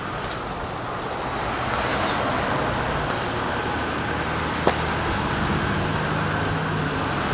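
Steady road traffic noise with a low engine hum, swelling slightly after the first second or so, and a single sharp click partway through.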